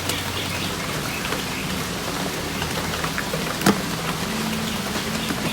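Steady rain falling, with scattered drip taps and one sharper tap a little past the middle.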